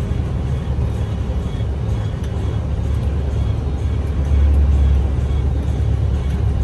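Heavy truck's diesel engine running under load, heard from inside the cab as a steady low drone that grows louder about four seconds in.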